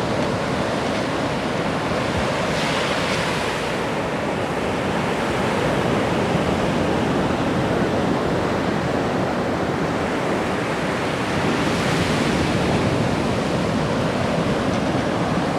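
Ocean surf washing onto a beach, a steady rush of water with two louder breaking waves, about three seconds in and about twelve seconds in.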